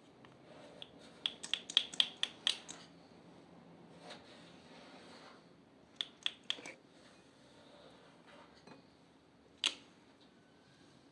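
Slime being worked by hand, giving sharp clicks and pops in quick runs. There are about eight in a row a second or two in, four more around the middle, and one single pop near the end.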